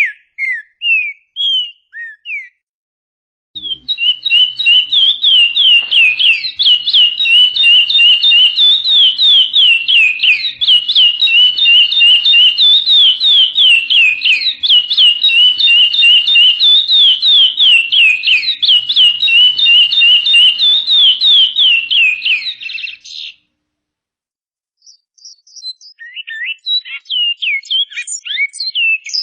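Songbird singing: a few separate high whistled notes, then after a short pause a long, fast string of high downslurred notes, several a second, that runs for about twenty seconds and stops suddenly. Near the end a different, scratchier song with varied notes begins.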